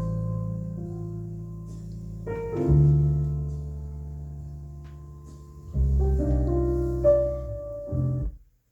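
Solo piano recording played back through Klipsch Forte III loudspeakers driven by a Rogue Audio Cronus Magnum III tube integrated amplifier. Deep, sustained chords are struck every few seconds and left to ring, and the music stops abruptly near the end.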